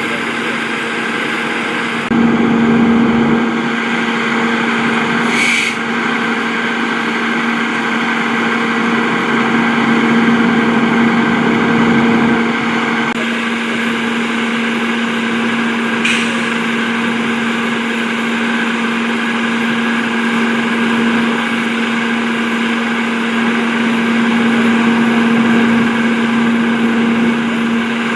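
Heavy truck's diesel engine idling steadily with a constant hum. Two short hisses come through, one about five seconds in and one about sixteen seconds in.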